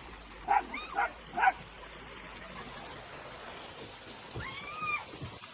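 A dog yipping three short times about half a second apart, then one longer drawn-out whining call near the end.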